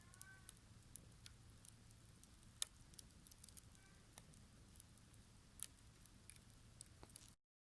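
Wood bonfire crackling: irregular sharp snaps and pops, one louder snap about two and a half seconds in. The sound cuts off just before the end.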